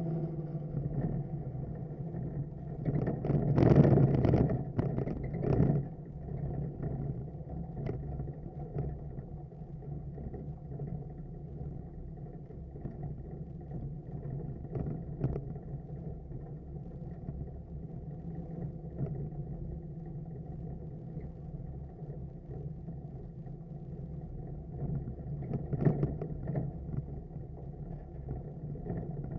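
Suburban's big-block V8 running steadily while driving, heard as a low drone from inside the cabin. It gets louder and rougher for a couple of seconds a few seconds in and again near the end.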